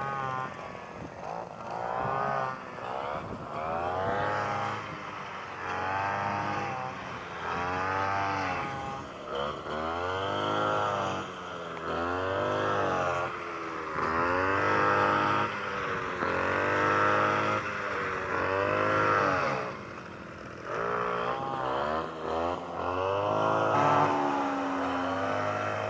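Brush cutter engine revving up and down over and over, each rise and fall lasting about a second and a half to two seconds, as it is worked through the rice, with a short drop about twenty seconds in.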